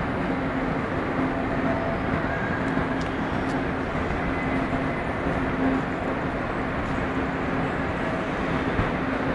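Steady rumble of a train standing at a station platform, with a constant low hum running under the noise.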